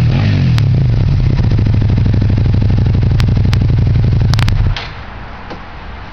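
2009 Suzuki Gladius's 645 cc V-twin idling through a carbon fibre Two Brothers exhaust, with a few sharp cracks over the idle, then cut off suddenly a little over four and a half seconds in.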